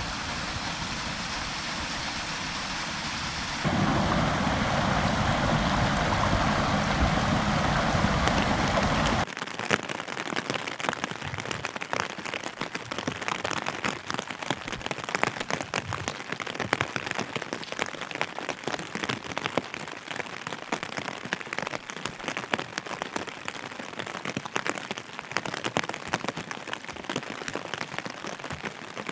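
Rain falling steadily, growing heavier a few seconds in. After about nine seconds it changes to dense patter of drops striking a surface close by.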